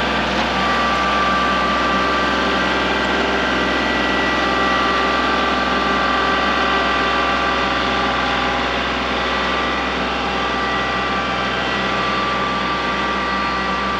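Kubota L3901 compact tractor's diesel engine running steadily.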